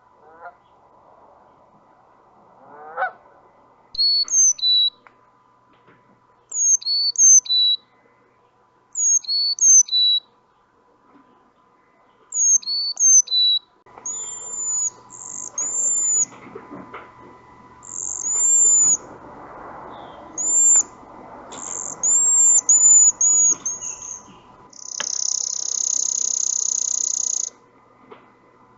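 A series of recorded bird calls from several species. A Canada goose honks twice near the start. Then a high three-note phrase is repeated four times, and finally thin high whistles and a buzzy high call sound over a faint background hiss.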